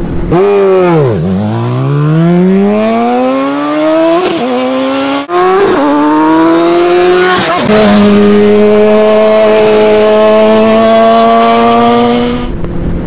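Honda CBR1000RR's inline-four engine accelerating hard, its revs climbing through three upshifts, each a brief dip in pitch. It then holds a steady high pitch for about five seconds and eases off near the end.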